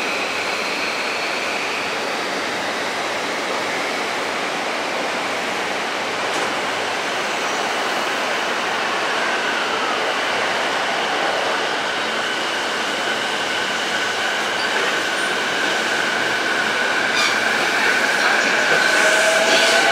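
Electric train running through a station: a steady rush of wheels on rail, with a thin high-pitched tone above it that grows louder toward the end.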